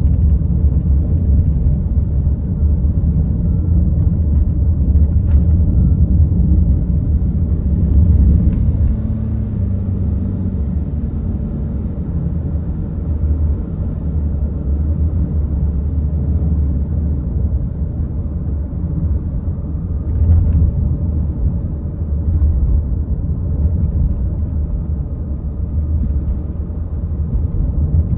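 Car being driven, a steady low rumble of engine and tyre noise heard from inside the car, with the engine note stepping down in pitch about ten seconds in.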